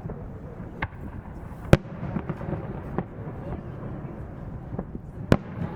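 Fireworks shells bursting: sharp bangs, a loud one a little under two seconds in and another near the end, with a few lighter ones between, over a steady background din.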